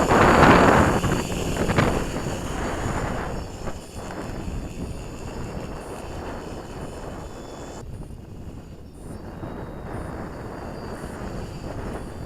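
A small multirotor's electric motors and propellers buzzing with a faint steady whine under wind buffeting the microphone. The wind is heavy at first and eases after about two seconds.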